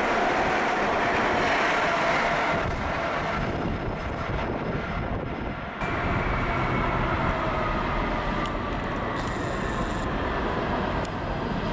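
PATCO Speedline rapid-transit cars rolling past close by, with steady wheel-on-rail running noise. About six seconds in the sound changes abruptly to a more distant PATCO III train approaching, with a faint whine that slowly falls in pitch.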